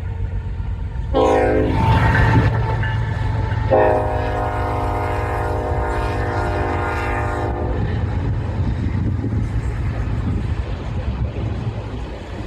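BNSF freight train locomotive horn sounding a short blast about a second in, then a long blast of about four seconds, over the steady rumble of the passing train. The short-then-long ending follows the standard grade-crossing horn pattern.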